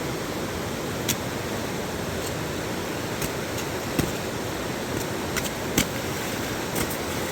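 Steady rushing noise with a few sharp clicks and knocks scattered through it.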